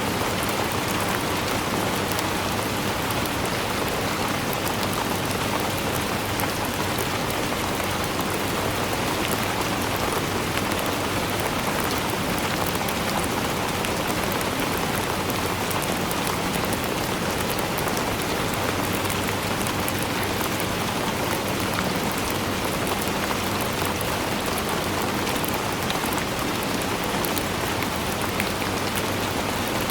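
Steady rainfall with a dense patter of drops hitting a surface, even in level with no thunder.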